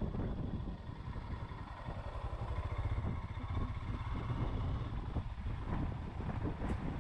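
Motorcycle running at speed on the road, its engine rumble mixed with wind buffeting the microphone.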